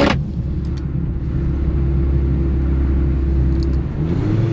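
Car engine running at low town speed, heard from inside the cabin, with a sharp click right at the start. About four seconds in, the engine note shifts and rises to a stronger, steadier tone.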